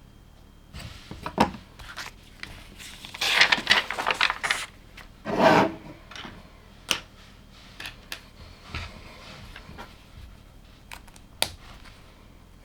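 Plastic LEGO pieces being handled: a stretch of rummaging and scraping through loose pieces, then a few sharp clicks as bricks are picked up and pressed together.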